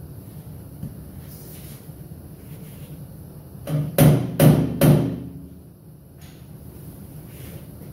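Hammer striking sheet-steel body panel: a light tap, then three hard blows in quick succession about four seconds in, each ringing briefly, over a steady low hum.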